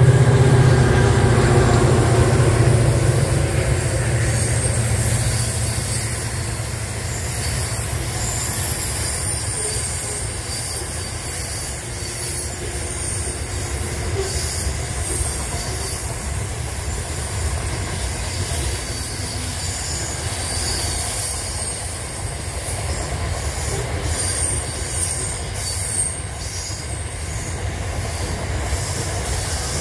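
A diesel-hauled freight train passing: the locomotive's low engine drone is strongest at the start and eases after about five seconds. A long run of wagons then rolls by with steady wheel noise and high-pitched wheel squeal coming and going.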